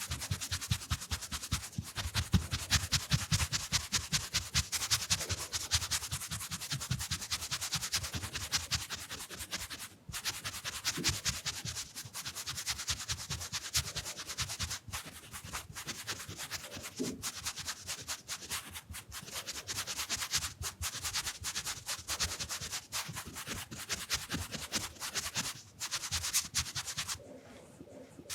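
Round makeup brush swept rapidly back and forth over the microphone and camera lens: a dense, fast scratchy swishing of bristles, many strokes a second, with a short quieter pause near the end.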